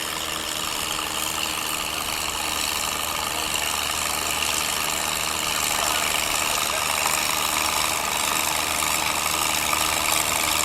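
Gas farm tractor engine running steadily, slowly growing louder.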